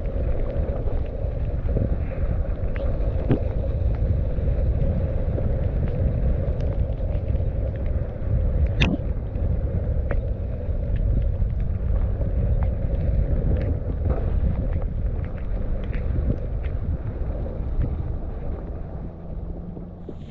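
Wind buffeting the microphone of a camera on a mountain bike descending at speed, with scattered knocks and clicks from the bike rattling over rough ground. One sharp crack comes about nine seconds in.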